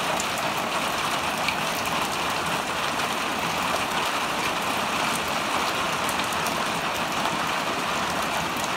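Heavy rain pouring down, a steady dense hiss with scattered drop ticks.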